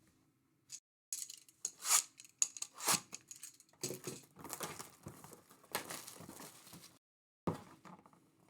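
Plastic wrapping of a sealed trading card hobby box being torn and crinkled open, a run of irregular tearing and crackling noises that stops about seven seconds in, with one short burst near the end.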